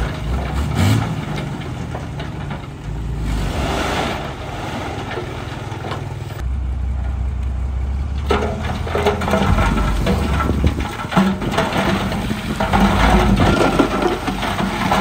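Heavy diesel engine of earthmoving machinery running under changing load, with rough grinding and scraping of rock and stone in stretches, about three seconds in and again from about eight seconds on.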